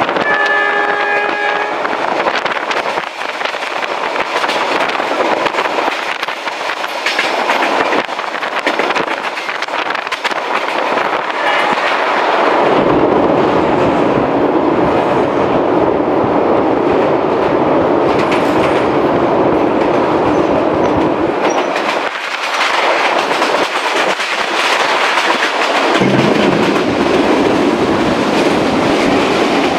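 Passenger train wheels running on the rails, heard from an open carriage window, with a brief train horn blast near the start. Midway, for about eight seconds, the running turns to a louder, deeper rumble as the train crosses a steel truss bridge. Near the end a lower drone comes in as an oncoming freight train's D20E diesel locomotive draws alongside.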